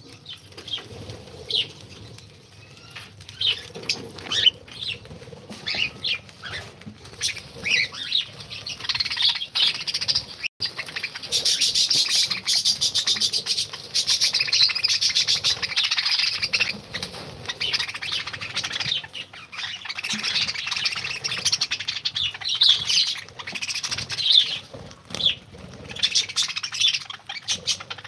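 A colony of cockatiels and lovebirds chirping and chattering in their aviary, many short calls overlapping, thickening into dense continuous chatter about eleven seconds in before breaking back into separate calls.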